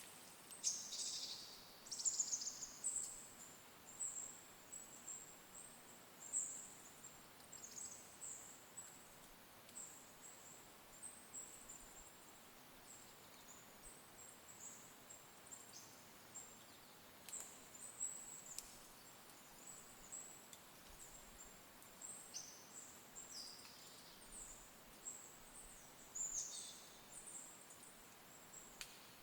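Small birds giving thin, very high-pitched calls and chirps again and again, some short notes sliding down in pitch, with the loudest cluster about two seconds in. The calls are faint over a quiet, still background.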